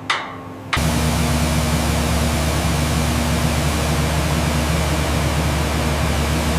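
A single metallic clank. Then, under a second in, a powered high-pressure spray tool starts abruptly and runs steadily: a loud, even hiss over a low machine hum.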